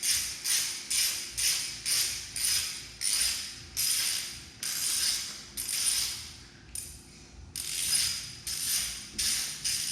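Ratchet wrench clicking through repeated back-swings, about two strokes a second with a slower stretch midway, as the coolant drain screw is loosened.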